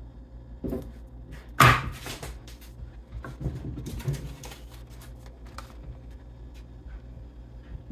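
A few knocks and clunks of things being handled, with one loud thump about a second and a half in, over a steady low hum.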